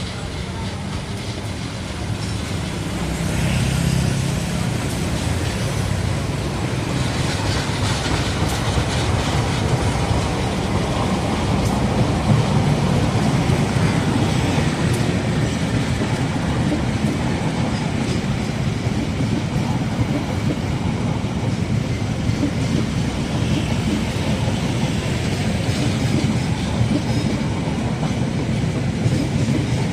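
A train passing close by on the track, its wagons' wheels clattering over the rails, loud and sustained, building over the first few seconds.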